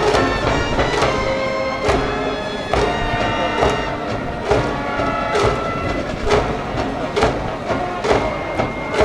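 School cheering band of brass instruments and drums playing a cheer tune, with a heavy drum hit about once a second under the sustained horn lines.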